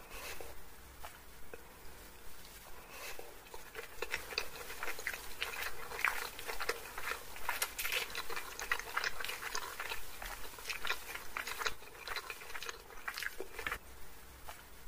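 A person chewing a mouthful of chowmein noodles and chilli chicken close to the microphone: a dense run of small mouth clicks, busiest from a few seconds in until just before the end.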